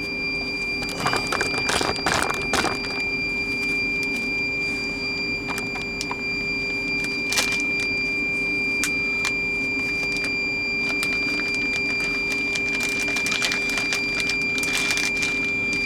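Plastic packaging and a ziplock bag rustling and crinkling in bursts as meat is repacked by hand, over a steady electrical hum.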